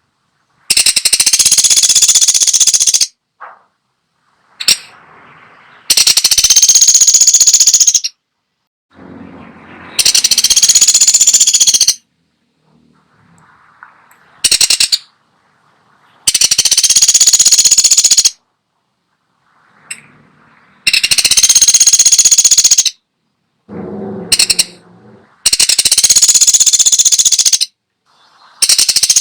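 Woodpecker (pelatuk sampit) giving loud, rapid rattling bursts, each about two seconds long, six in all, a few seconds apart, with a few short, fainter notes between them.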